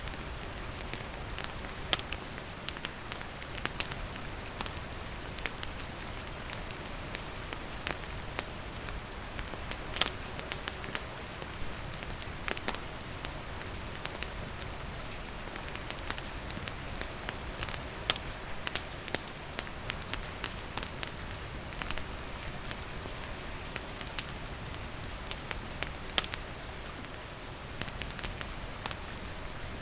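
Steady rain falling on surfaces, with a campfire's wood crackling in sharp, irregular pops over the hiss.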